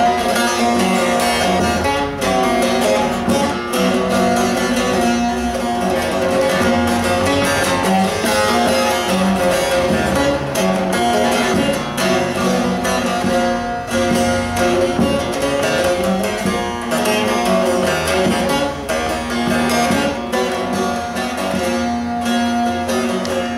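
Bağlama (saz) with a one-piece carved mulberry bowl being played: a fast, densely plucked melody over ringing drone strings, without a break.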